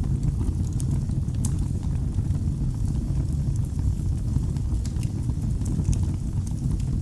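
Wood fire crackling in a fireplace: a steady low rumble of flames with scattered sharp snaps and pops.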